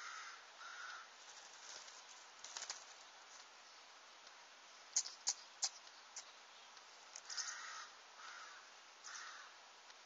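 Wild garden birds giving short rough calls, two near the start and three more about a second apart in the second half. About halfway through there are four quick sharp clicks.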